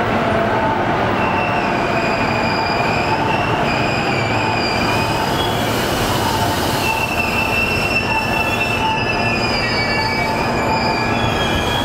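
E233-series commuter electric train running along the track, heard from inside the car: a steady rumble with high-pitched wheel squeal, several wavering tones that fade in and out.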